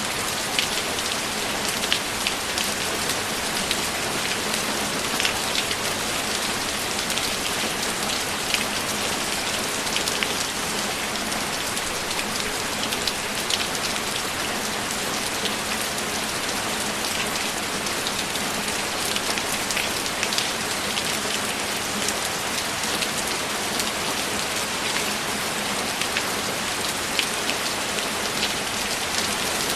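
Steady heavy rain falling, an even hiss throughout with many sharp individual drop hits scattered through it.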